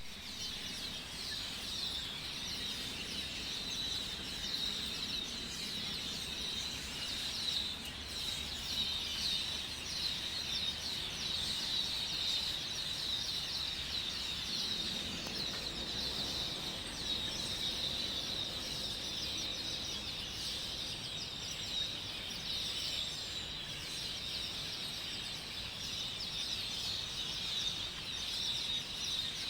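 A dense, continuous chorus of many small animals making rapid, high chirps all at once.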